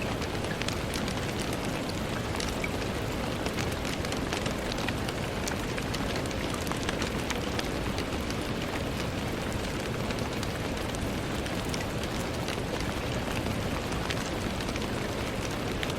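Steady rain falling on a window, an even hiss with many small drop ticks scattered through it.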